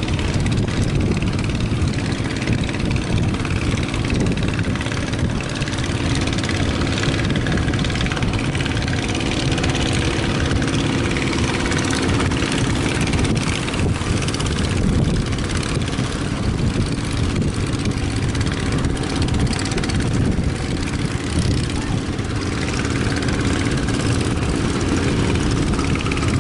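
Fishing boat's engine running steadily, under a constant rush of strong wind over the microphone.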